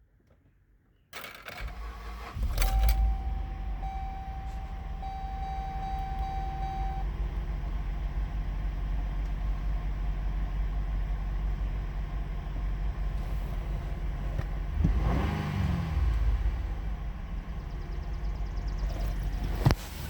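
2008 Buick Enclave's 3.6L V6 engine starting about a second in, then idling steadily. A steady high tone sounds for a few seconds early on. The engine is revved once briefly about three-quarters of the way through, and there is a sharp knock near the end.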